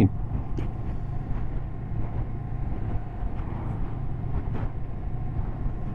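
Honda CB500X motorcycle's parallel-twin engine running steadily at cruising speed, with wind and road noise as a steady low rumble.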